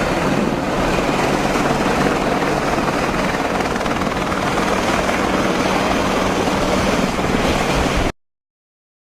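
Apache attack helicopter running, a loud steady rotor and engine din with a low hum underneath. It cuts off abruptly about eight seconds in.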